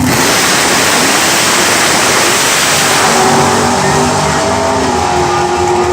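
A 1971 Plymouth Duster drag car's engine running loud and hard, starting abruptly. From about halfway, a steadier engine tone comes through the rush of noise.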